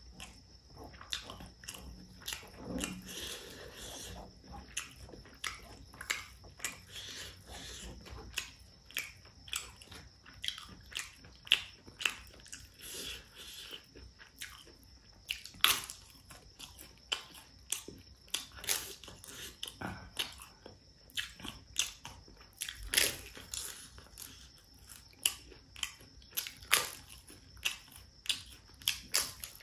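A person chewing food, with many sharp crunches from biting crisp papad wafers between softer chewing of rice and pork curry. The loudest crunches come in the second half.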